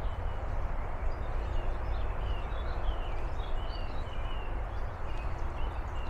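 Outdoor background: a steady rushing noise with a low rumble, and small birds chirping faintly and repeatedly through it.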